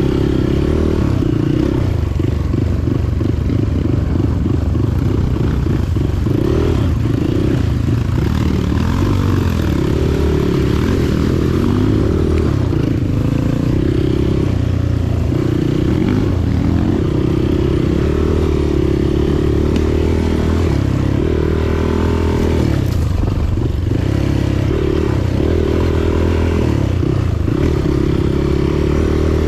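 Motorcycle engine running steadily, its revs rising and falling again and again, with some clatter.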